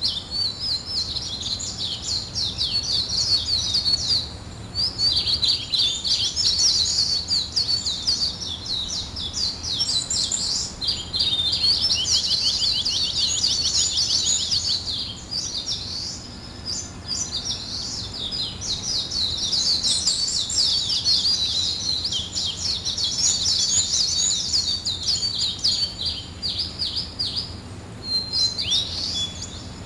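Songbirds singing in long runs of rapid, high twittering chirps, with short pauses between phrases.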